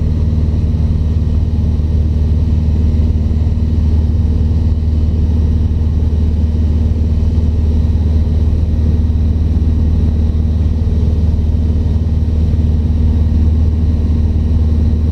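Cessna 150's four-cylinder Continental O-200 engine and propeller droning steadily in cruise, heard from inside the cabin: a constant low hum with no change in pitch.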